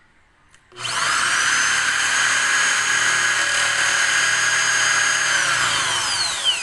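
Power drill driving a screw into wood: the motor whine starts suddenly under a second in, runs steady, then falls in pitch and winds down near the end.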